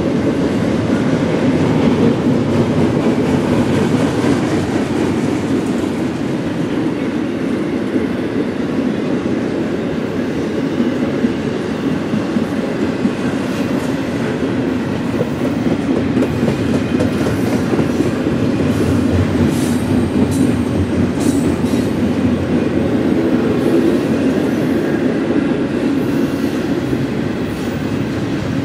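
Double-stack intermodal container train rolling past: a steady, continuous noise of steel wheels on rail, with a few brief high squeaks about two-thirds of the way through.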